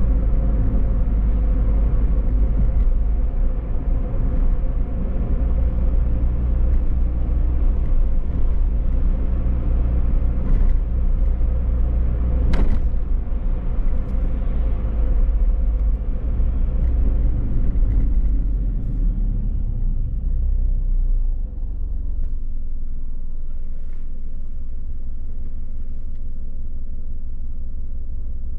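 A car driving, its engine and road noise making a steady low rumble, with one sharp click about halfway through. About two-thirds of the way in the sound drops to a quieter, steady low rumble.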